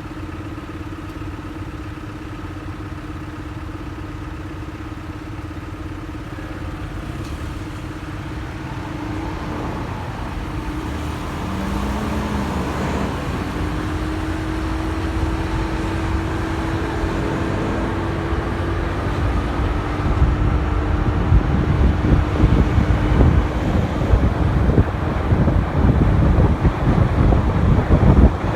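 Motorcycle engine running in city traffic, low at first and then louder as the bike gets under way. In the last third, wind buffets the microphone as speed builds.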